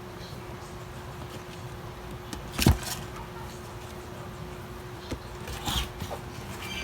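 Two knocks against a steady low hum: a sharp, loud one a little under three seconds in and a softer, duller one near six seconds.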